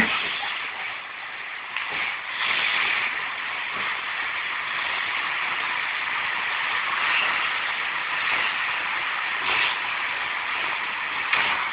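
Class 165 Turbo diesel multiple unit running slowly into the platform towards the listener, a steady rushing noise of engine and wheels with a few short clicks.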